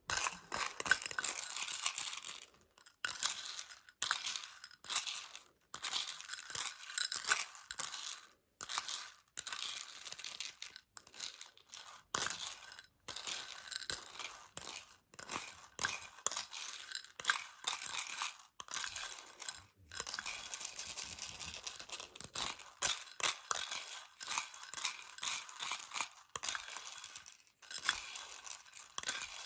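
Small Choco Baby chocolate pellets rattling and clicking inside their plastic container, in repeated short bursts of a second or two with brief pauses between.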